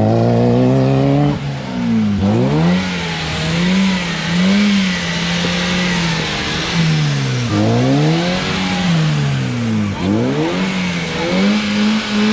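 A UAZ off-roader's engine is revved up and down over and over, rising and falling in pitch several times, with a steady hiss over it. The vehicle is struggling to get free of a stuck spot.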